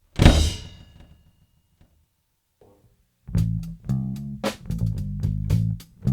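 A single loud bang about a quarter second in that rings off over about a second, then quiet. About three seconds in, a rock song starts: a bass guitar line with steady drum beats.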